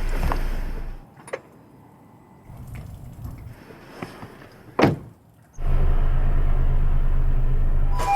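Car sounds: a steady low engine hum that drops away about a second in, a few sharp clicks and one loud knock, then the steady low hum of the car's engine coming back about five and a half seconds in.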